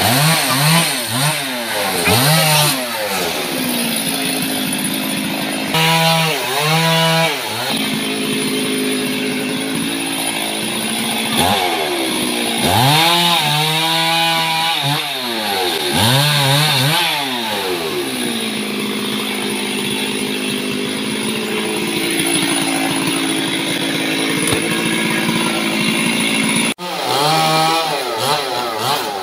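Heavy rain and strong wind, loud and rough on a phone microphone, with a wavering wail that rises and falls several times.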